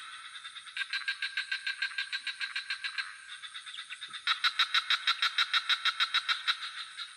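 Swamp frog chorus: rapid pulsed trills of about eight pulses a second, in overlapping bouts that swell loudest about four seconds in. A steady high insect trill, typical of crickets, runs underneath.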